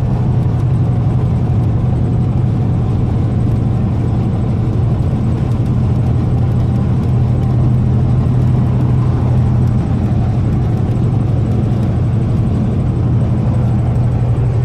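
Semi truck's diesel engine running at a steady cruise, a constant low drone with road noise, heard from inside the cab.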